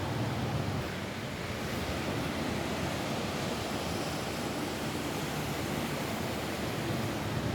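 Steady rain falling on a roof, an even hiss with no single drops standing out.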